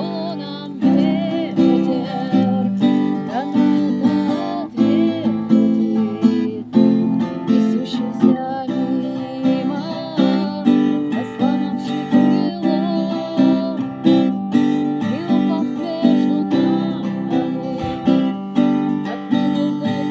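Instrumental passage of a song: acoustic guitar strummed in a steady rhythm, with a wavering melody line above the chords.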